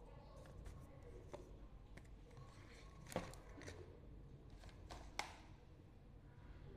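Faint low hum with a few soft clicks and taps; the two sharpest come about three and five seconds in.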